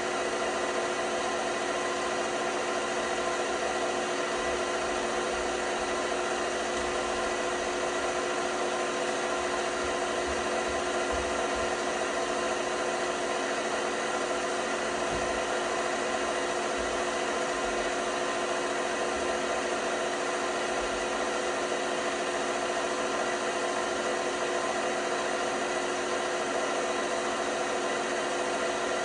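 LG washing machine running steadily, an even mechanical hum made of several steady tones over a noise haze, with a few faint low thumps in the middle.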